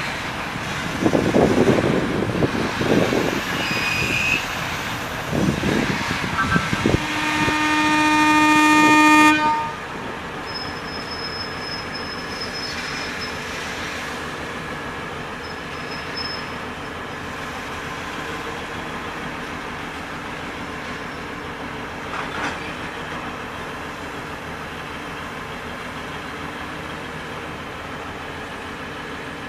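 Train passing with irregular clattering and rumbling of its wheels on the rails. A single long train-horn blast follows, growing louder and cutting off sharply about nine seconds in, and then a steady, quieter rumble.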